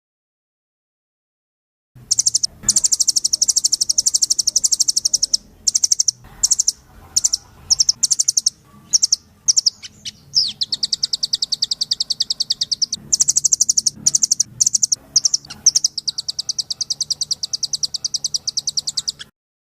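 Rambatan loreng songbird singing hard: fast, high-pitched rattling trills in long runs broken by short pauses. The song starts about two seconds in after a silent gap and stops just before the end.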